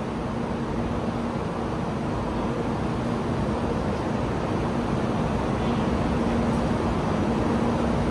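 Stationary Taiwan High Speed Rail 700T trainset standing at the platform, its onboard equipment giving a steady whirring hum with a low steady tone, growing slowly louder.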